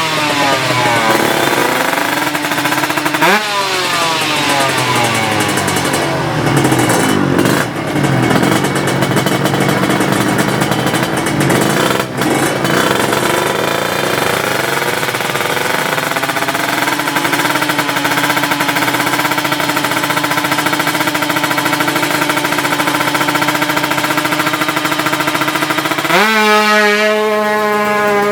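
Two-stroke Kawasaki Ninja 155 tune-up drag bike engines revving hard. The pitch climbs in rising sweeps at the start, again about three seconds in, and again near the end, with a steady high-revving drone in between.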